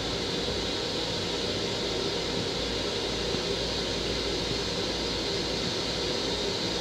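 Steady running noise of an M7 electric commuter railcar heard inside its restroom: a low, uneven rumble under an even hiss.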